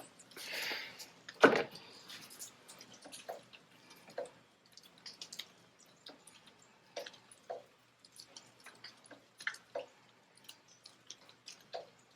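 Scattered light clicks and clinks of hand tools on a Ford 5.0 V8, as the spark plug is worked out of cylinder 5 for a compression test. A brief rustle comes near the start and a sharper knock about a second and a half in.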